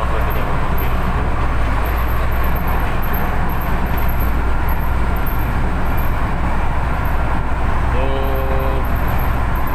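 Moving light-rail train heard from inside the car: a loud, steady running rumble. A brief pitched tone sounds about eight seconds in.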